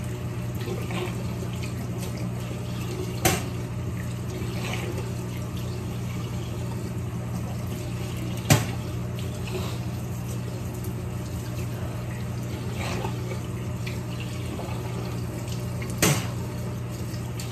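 Steady low drone of a semi-truck's engine and road noise heard from inside the cab, with three short sharp clicks or knocks spread through it.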